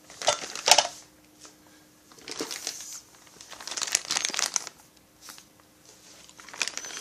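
Plastic parts bag crinkling in bursts as it is handled.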